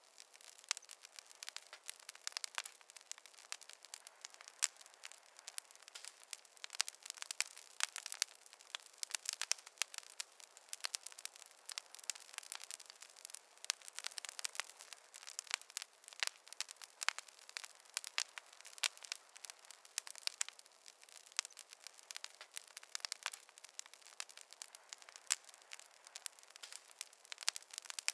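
Wood fire crackling: dense, irregular snaps and pops of burning logs over a faint hiss.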